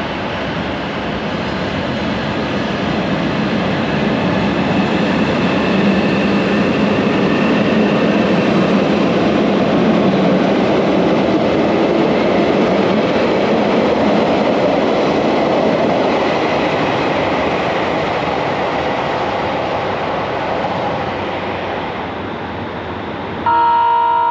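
JR Hokkaido 789 series electric train running on the tracks, growing louder and then gradually easing off. Near the end the sound cuts suddenly to a louder ringing chime.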